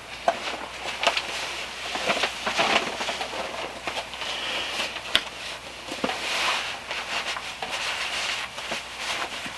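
Rustling with scattered light clicks and knocks at irregular times, a sharper knock about five seconds in: someone moving about and handling things inside a canvas tent.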